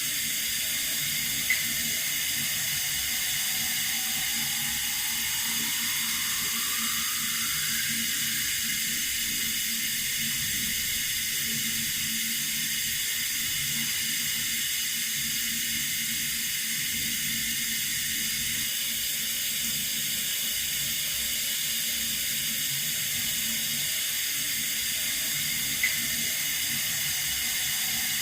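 Running water from a tap, a steady rushing hiss. A faint tone rises in pitch over a few seconds near the start, and a small click comes twice.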